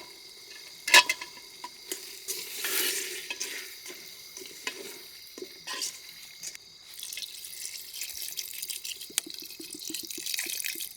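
A spatula stirring and knocking against a pan of chicken, onion and masala frying in oil, with a sharp knock about a second in. The sizzling swells briefly around the third second and turns into a steadier crackle from about seven seconds on.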